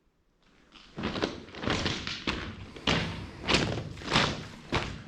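Footsteps crunching on loose railroad ballast rock at a steady walking pace, about one step every half second or so, starting about a second in.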